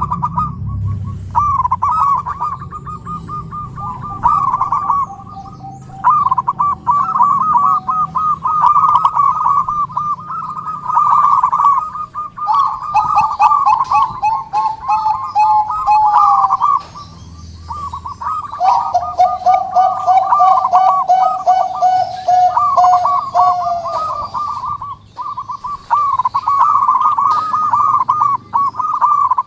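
Several zebra doves (perkutut) cooing at once, their rolling, trilled coos overlapping almost without pause. A lower, longer trill joins in at times and ends in a downward slide.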